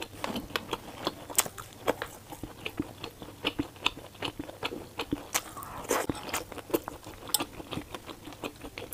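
Close-miked chewing of chewy, spice-coated gluten rings: a steady run of short, irregular mouth clicks, several a second.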